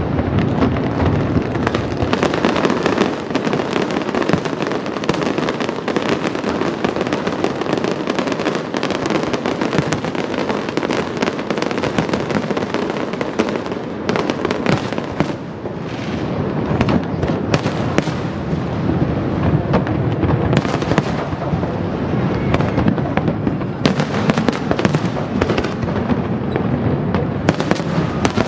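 Fireworks display at full intensity: a dense, continuous crackling and popping of many shells bursting at once. There is a brief lull about fifteen seconds in before it builds again.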